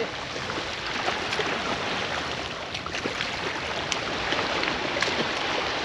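Steady outdoor rushing noise of moving water and wind, with a few faint clicks scattered through it.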